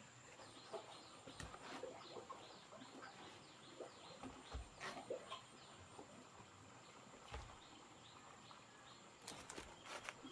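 Faint outdoor ambience of small birds chirping in quick repeated short notes, with a few light knocks.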